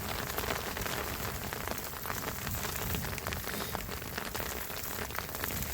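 Steady rain falling on a surface: a dense, even hiss full of small sharp drop ticks.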